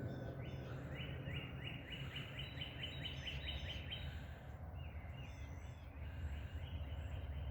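A songbird singing a long run of quick repeated notes, about four a second, for some three seconds, followed by a shorter phrase near the end, over a steady low outdoor rumble.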